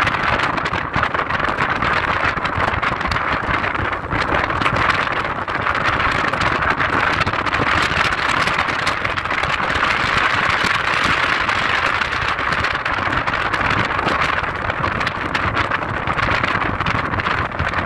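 A car driving steadily, with constant tyre and road noise and a low rumble beneath it.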